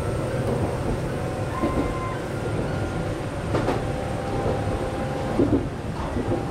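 Shizuoka Railway 1000-series electric train running, heard from inside the front car: a steady rumble of wheels on rail with faint steady tones over it, and a couple of sharper knocks, one a little past the middle and one near the end.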